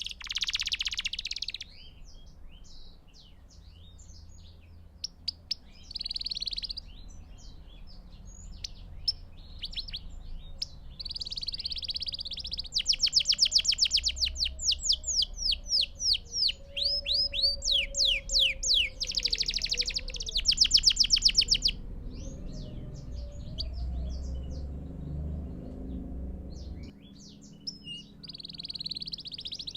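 Belgian canary singing: fast trills of rapidly repeated, quickly falling notes, in phrases broken by short pauses, loudest in two long rolls in the middle.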